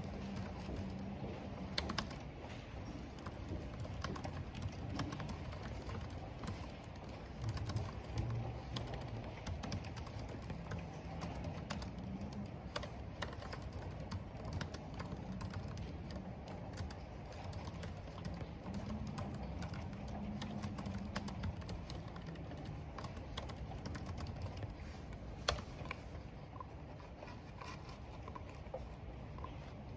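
Computer keyboard typing: quick, irregular keystrokes throughout, with one sharper key click near the end, over a steady low background of wind and rain.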